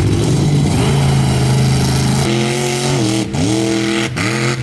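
Mud truck engine running under load at a steady pitch, then revved higher about halfway through and let off and revved back up twice.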